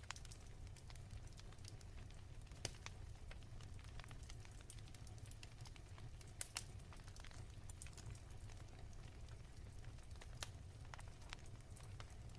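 Wood fire crackling softly, with scattered sharp pops and snaps, two of them louder, over a low steady rumble.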